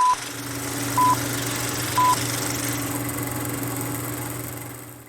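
Three short electronic beeps, identical in pitch and a second apart, over a steady low hum and hiss that fade out near the end.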